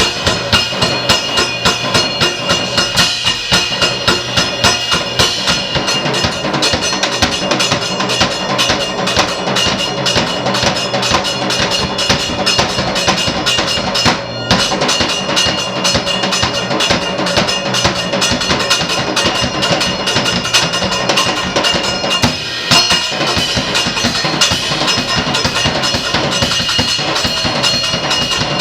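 Experimental live percussion: rapid, dense drumming with steady ringing tones above it, breaking off for a moment about halfway through.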